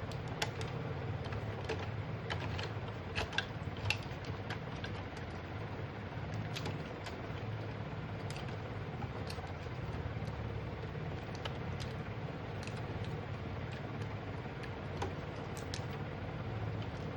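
Scattered light clicks and taps, a few sharper ones in the first four seconds, over a steady low hum.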